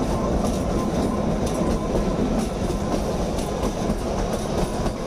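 Kalka–Shimla narrow-gauge passenger train running, its wheels clattering on the rails and the carriages rattling steadily, heard from an open carriage window.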